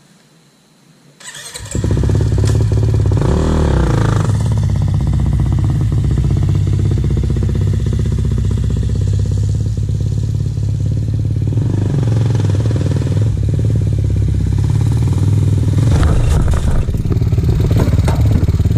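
Kawasaki KX450 dirt bike's single-cylinder four-stroke engine, cutting in suddenly about a second and a half in and running loud, its pitch rising and falling with the throttle around three to four seconds in and again near the end.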